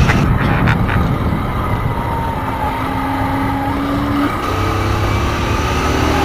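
Motorcycle engine running while riding, with heavy low rumble; its pitch holds steady, then climbs slowly in the second half. A few sharp clicks near the start.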